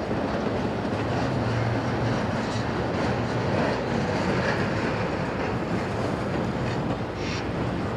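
CSX single-stack intermodal freight train rolling past, a steady rumble of steel wheels on the rails, with a brief higher-pitched sound about seven seconds in.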